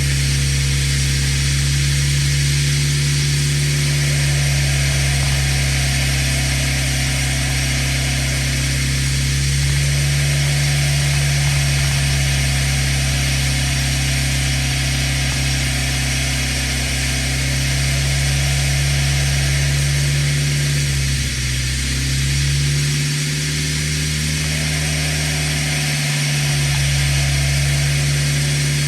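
An engine idling steadily, with a brief change in its note about two-thirds of the way through.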